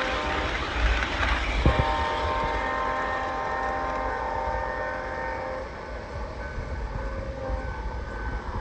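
LGB G-scale model train running on its track: a steady hum from the motor and gears over wheel rumble, with a single click about two seconds in.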